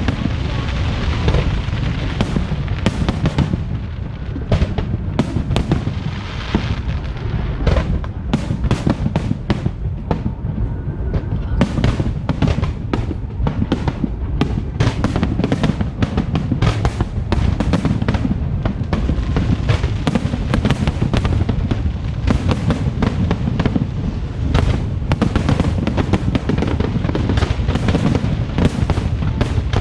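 Fireworks display going off continuously: a dense run of rapid bangs and crackles over a deep rumble, with music playing underneath.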